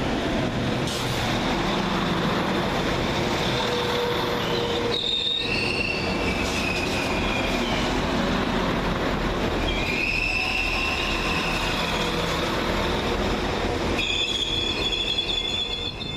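Pair of Class 195 diesel multiple units running through the station with a steady rumble of wheels on rail. High-pitched wheel squeal comes and goes several times, with its pitch sliding.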